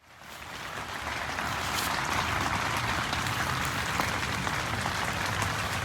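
Heavy downpour: a dense, steady patter of rain, fading in over about the first second.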